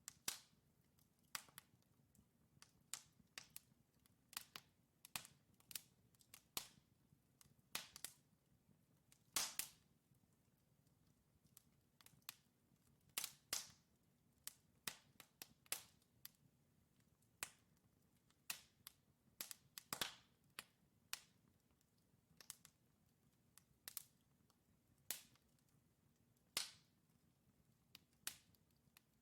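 Wood fire in a fireplace crackling: burning logs giving off sharp, irregular pops and snaps, some louder than others, over a faint low rumble of the flames.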